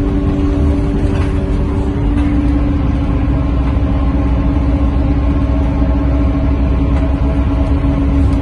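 Scania K230UB Euro V bus heard from inside while moving: a steady low rumble of engine and road with a steady whine over it; a second, higher whine fades out about two seconds in.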